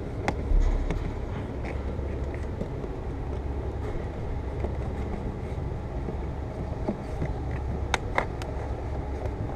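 Steady low rumble with a few sharp clicks and knocks of car parts being handled: one near the start and two or three close together about eight seconds in.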